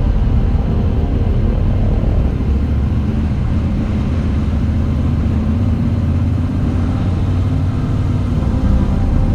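Moto Guzzi V85TT's air-cooled V-twin engine running steadily as the motorcycle is ridden, its pitch shifting slightly.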